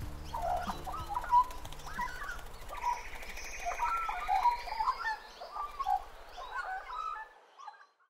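Several birds calling, with short whistled and warbling notes, fading out near the end.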